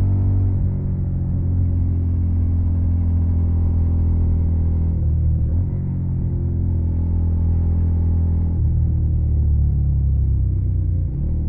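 Suzuki SV650's V-twin engine running through a Yoshimura Alpha carbon exhaust, a deep, steady exhaust note whose pitch shifts about five seconds in and again near nine seconds.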